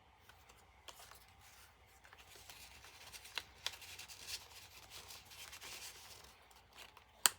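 Paper rustling and sliding as journal tags are handled in a paper pocket, with one sharp click near the end.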